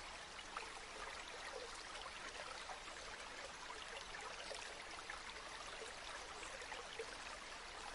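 River water flowing steadily, an even rush speckled with small splashes and gurgles.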